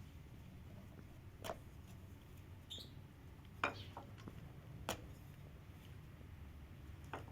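Faint, scattered light clicks and taps, several of them at uneven intervals, over a low steady hum.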